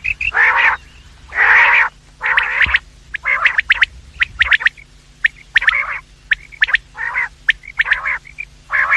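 Quail calling over and over: rasping calls about half a second long come roughly once a second, with short sharp clicking notes between them, over a faint steady low hum.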